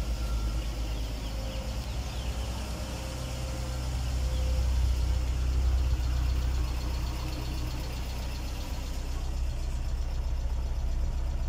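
Car engines idling at a raised cold-start idle after a morning start, a steady low hum that grows a little louder partway through.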